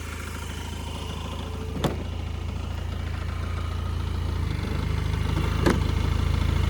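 2007 Polaris IQ 750 snowmobile engine idling steadily just after an extreme cold start, still cold and stiff and warming up, its level slowly rising. Two sharp clicks, about two seconds in and again near the end.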